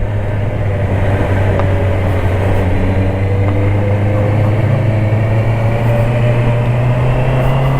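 Honda CBR650R's inline-four engine running steadily under way, its pitch rising a little about four seconds in and then holding.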